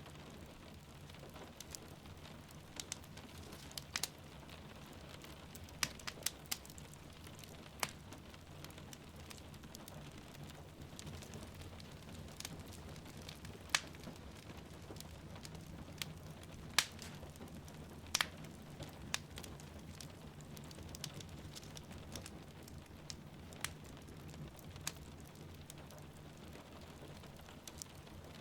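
Wood fire crackling in a fireplace, with sharp irregular pops and snaps, over a steady wash of falling rain.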